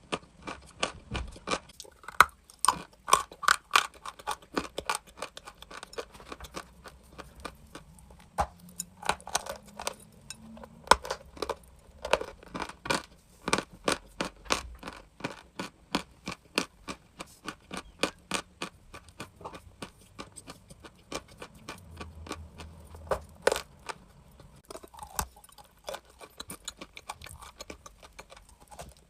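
Crunchy chalk being bitten and chewed: an irregular run of sharp crunches and cracks, several a second, with brief pauses.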